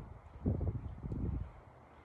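Wind buffeting the microphone outdoors: low rumbling gusts, the strongest from about half a second in to about a second and a half.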